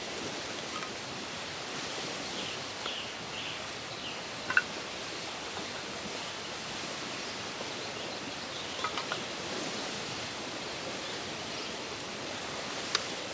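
Steady outdoor background noise, with a few sharp clicks over it: one loud one about four and a half seconds in, three in quick succession near nine seconds, and one near the end.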